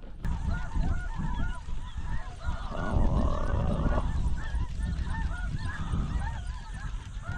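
A flock of snow geese calling: many short, overlapping high yelping honks go on without a break, over a low rumble of wind on the microphone.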